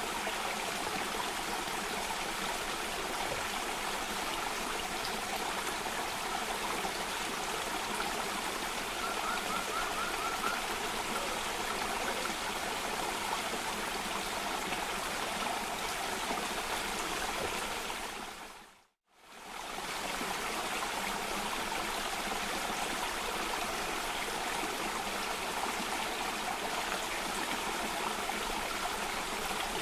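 Water rushing steadily down a small cascade or stream. About nine seconds in, a brief run of quick high notes sounds over it. About two-thirds of the way through, the sound dips to silence for a moment and fades straight back in, like a loop point in the recording.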